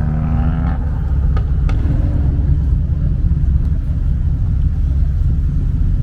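Car engine exhaust rumbling loudly and steadily, with a short pitched tone over it in the first second.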